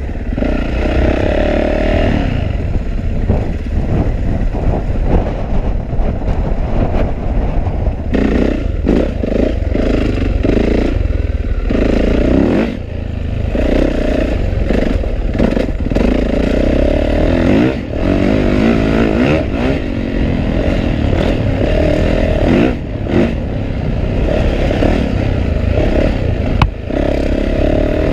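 Yamaha YZ450F single-cylinder four-stroke dirt bike engine under hard riding. It revs up and falls back again and again as the throttle is worked, with short dips when the throttle is let off, and the chassis clattering over rough ground.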